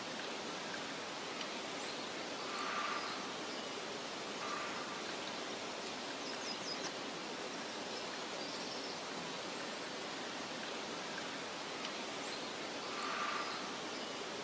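Steady soft hiss of wind over a meadow, with a few faint, short bird calls: one about three seconds in, a quick run of high chirps midway, and another call near the end.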